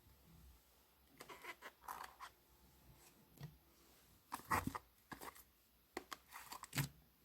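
Slime being squeezed and poked by hand: irregular clusters of faint squishing clicks and pops, loudest about four and a half seconds in and again near the end.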